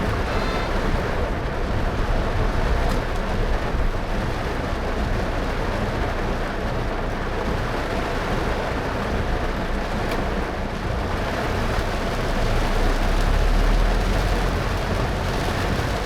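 Car driving in heavy rain: a steady wash of rain and tyres on a wet road over a low road rumble, which swells briefly about thirteen seconds in.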